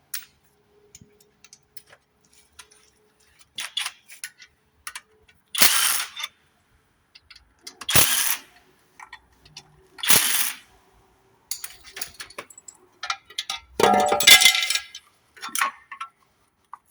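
Metal engine parts clinking and clattering as they are handled during hand disassembly of a damaged engine: scattered light clicks and four louder bursts of rattling a few seconds apart, the last the longest.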